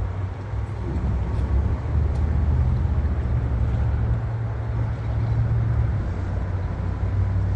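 High river water rushing and crashing below the dam: a steady, loud low rumble with a hiss above it.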